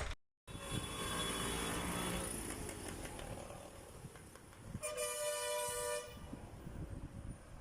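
A steady rumble and hiss. About five seconds in, a horn sounds one steady chord of several tones for about a second.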